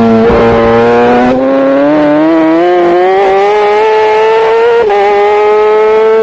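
Racing superbike engine under power, holding steady revs for about a second, then climbing in pitch and dropping sharply near the end at an upshift before pulling up again.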